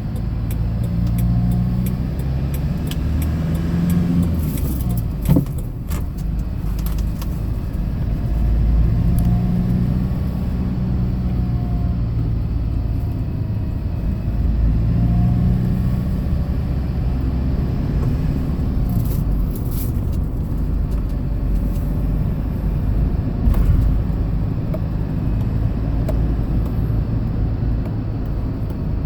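Hyundai Porter II box truck driving: steady engine and road rumble, with the engine note rising and falling as it speeds up and eases off. Two brief knocks, about five seconds in and again near the end.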